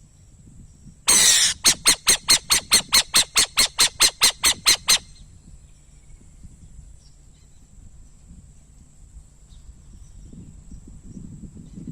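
Owl calling: one harsh screech about a second in, then a fast run of short rasping notes, about five a second, that stops abruptly about five seconds in.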